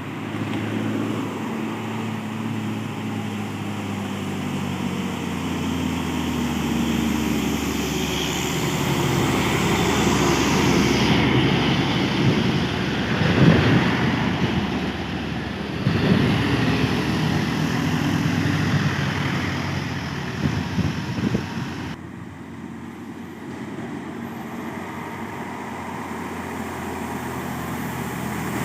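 Heavy truck's diesel engine labouring up a steep climb, growing louder to a peak about halfway through, then easing off; the level drops suddenly near the end.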